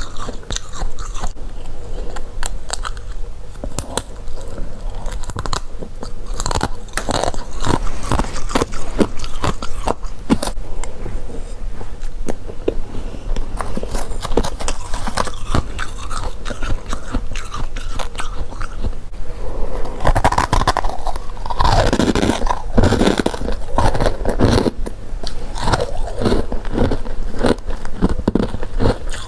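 Close-miked biting and chewing of freezer frost: a dense run of crisp crunches and crackles, heavier and louder crunching for a few seconds about twenty seconds in.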